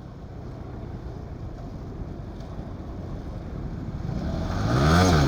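Motorcycle engine running under wind noise, growing louder, then revved hard near the end, its pitch climbing sharply and dropping back.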